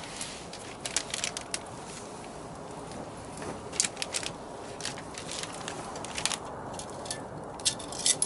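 Squid cooking in a cast-iron skillet over a strong wood fire: a steady hiss with irregular sharp pops and crackles coming in clusters.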